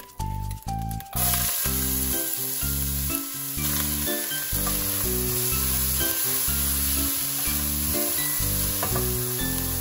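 Diced vegetables sizzling in hot oil in a cast-iron pot as they are stirred with a silicone spatula. The sizzle starts about a second in, over background music.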